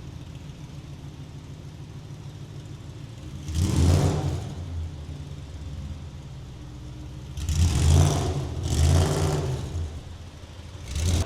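BMW S65 V8 in a rally-built BMW 1M idling, revved in short throttle blips: one about a third of the way in, two close together about two-thirds through, and a last short one at the end.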